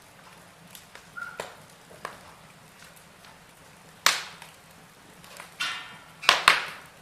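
Wood fire crackling in a fireplace: scattered sharp pops and snaps, the loudest about four seconds in and a quick pair near the end, with a brief hiss just before that pair.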